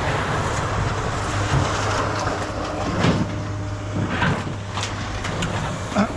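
A vehicle engine running steadily, with a few knocks and clatters scattered through.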